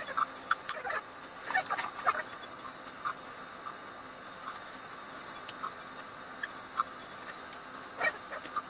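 Scattered light clicks and taps from small objects being handled. Most come in the first two seconds, with a few more later on.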